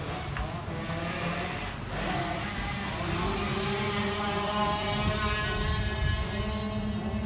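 Motocross dirt bike engine running and accelerating, its pitch rising steadily from about two seconds in.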